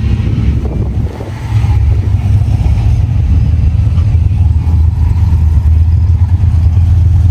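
Classic car engine with a deep, loud exhaust rumble as the car drives out. It dips briefly about a second in, then runs steadily.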